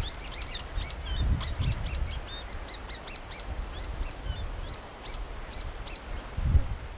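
Scarlet-chested parrots giving rapid, high-pitched twittering chirps, a fast series of short notes that stops about six seconds in, as one male chases a rival male off his shady spot.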